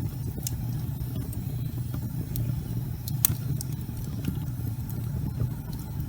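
Wood fire burning in a fireplace: a steady low rumble of flames with scattered sharp crackles and pops, the loudest pop about three seconds in.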